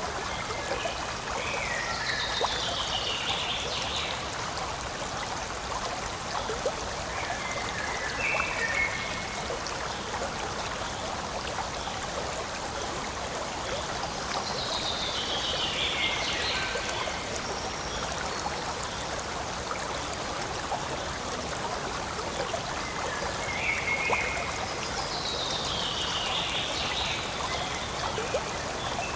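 Forest stream running and trickling steadily, with a short, higher-pitched falling sound coming back about every six to eight seconds.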